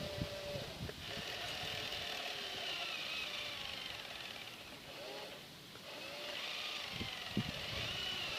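Small electric motors and gearboxes of a 1:12 scale RC dragline excavator whining, their pitch rising and falling as the model is worked. There are a couple of low knocks near the end.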